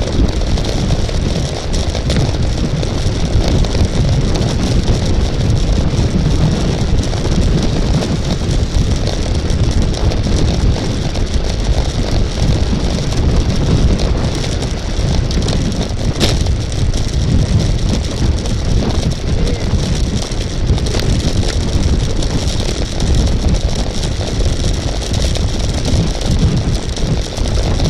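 Steady wind buffeting the microphone of a camera riding along on a racing bicycle, a constant rush of noise with tyre and road hiss over it.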